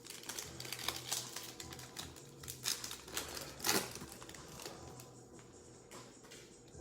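Trading card packs and cards being handled: irregular crinkling and clicking of pack wrappers and card stock, with one louder crackle a little before the halfway point.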